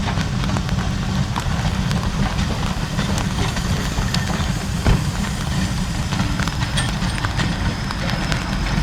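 Train running along the track: a steady low rumble with irregular clicks and knocks from the wheels, one louder knock about halfway through.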